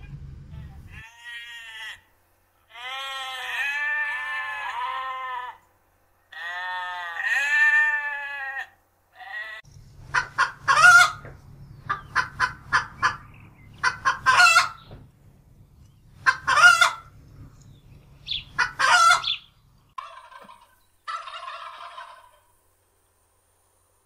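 A rooster crowing twice in long calls, then turkeys gobbling in a run of short rattling calls over a low hum, with a few fainter calls near the end.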